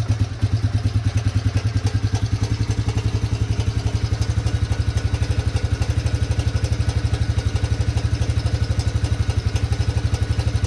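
Honda Fourtrax 250's air-cooled single-cylinder four-stroke engine idling cold after sitting all winter, with steady, even exhaust pulses.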